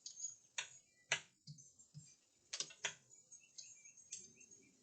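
Scattered sharp clicks and light taps of small hard letter pieces being handled and set down, with the loudest clicks about half a second, one second, two and a half and three seconds in.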